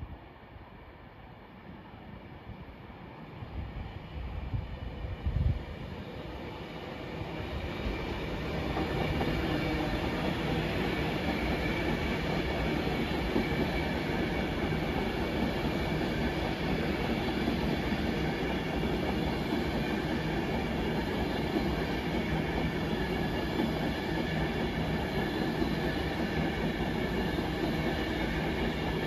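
Avanti West Coast Class 390 Pendolino electric train approaching and then running past at speed. The noise builds over the first eight seconds, with a few knocks around five seconds in, then holds as a steady rumble of wheels on rail with a faint steady whine.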